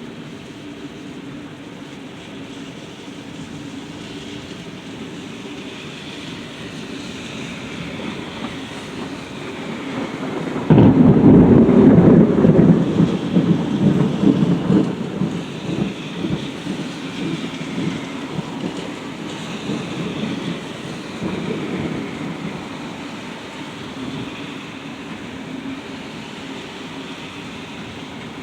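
Steady rain, then about eleven seconds in a sudden loud crack of thunder that rumbles on, fading over the next ten seconds or so.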